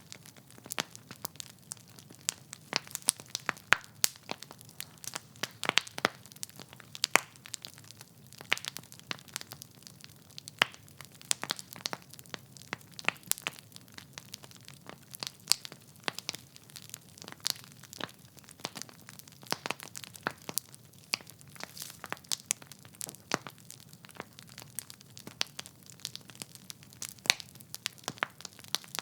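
Wood fire burning in a fireplace, the logs crackling and popping in quick, irregular snaps over a faint low hiss.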